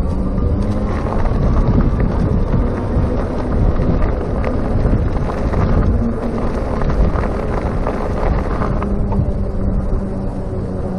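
Wind rushing over a chest-mounted GoPro microphone, mixed with road and tyre noise, while riding a RadMini electric bicycle.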